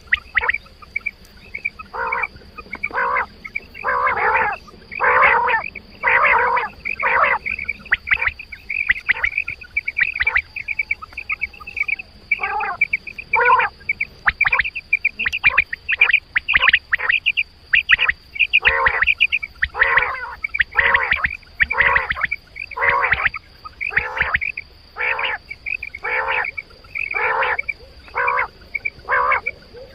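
Quail calls used as a hunting lure, repeating over and over in short harsh notes about once a second, with a run of quicker, higher chirping notes in the middle. A thin, steady high tone runs behind them.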